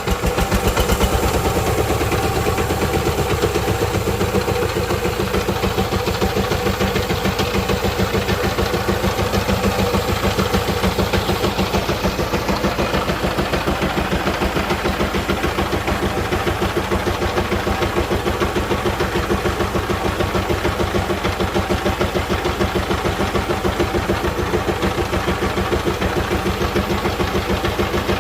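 Diesel engine running steadily just after being started, its firing strokes coming in a fast, even rhythm.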